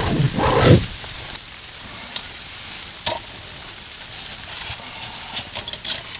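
Heavy falling snow, a steady hiss with scattered sharp ticks as flakes and pellets strike nearby surfaces. The ticks come more often toward the end.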